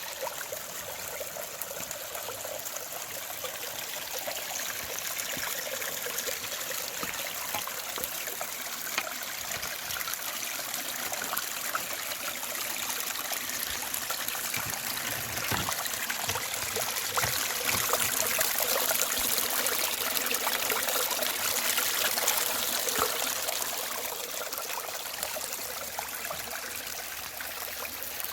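A small creek running over rocks, a steady babbling trickle that grows louder for several seconds past the middle.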